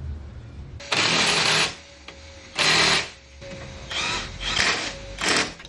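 Impact wrench on a car wheel, run in five short bursts: a longer one about a second in, one near the middle and three quick ones near the end.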